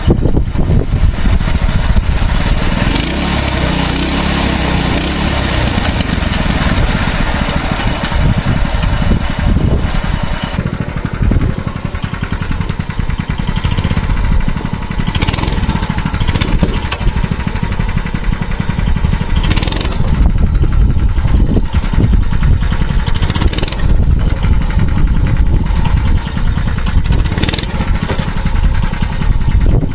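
Mini bike's small engine running with its governor spring removed, revved up and down in the first few seconds and then running on steadily without stalling under throttle.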